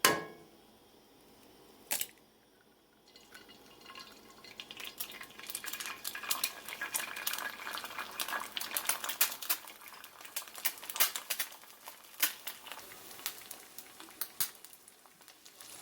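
Kitchen work at a pan: two sharp clicks, then from about four seconds in a dense crackling with many sharp clicks of utensils and cookware.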